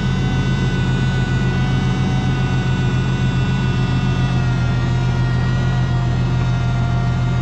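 Oliver 880 tractor's six-cylinder gasoline engine running steadily, a constant low drone with a fast, even firing pulse.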